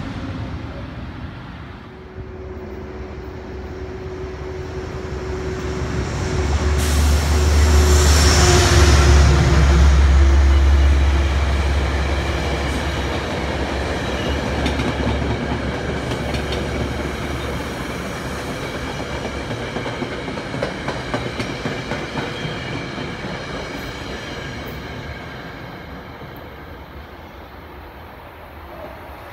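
Electric passenger train passing: a deep rumble swells to its loudest about ten seconds in, then wheels click over the track as the cars go by, and the sound fades toward the end.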